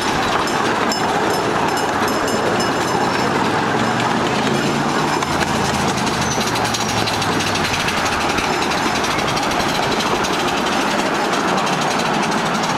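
Small-gauge park steam train in motion, heard from an open passenger car: a steady running noise of the cars and wheels on the track.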